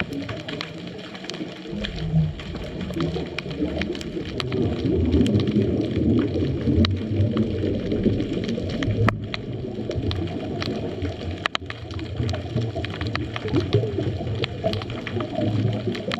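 Underwater sound picked up by a GoPro in its housing on a scuba dive: a diver's exhaled regulator bubbles rumbling and gurgling, swelling in waves. Many short sharp clicks are scattered throughout.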